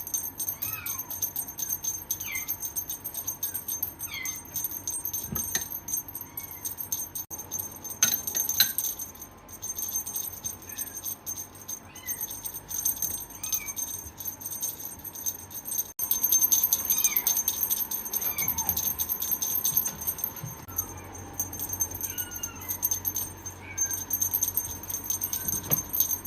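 Short, high-pitched calls from a small animal, repeated about once a second, over a constant fine jingling rattle.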